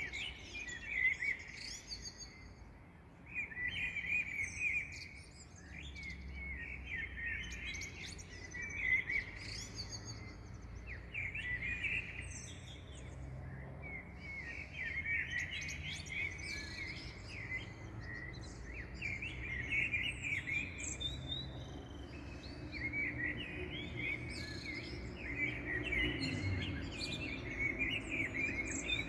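Dawn chorus of small songbirds: many quick chirps and trills from several birds overlapping without pause, over a faint low rumble.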